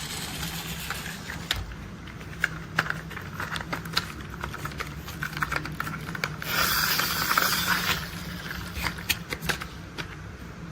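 Plastic toy construction vehicles being handled: a run of sharp clicks and rattles over a steady low hum, with a scraping rush about two-thirds of the way through.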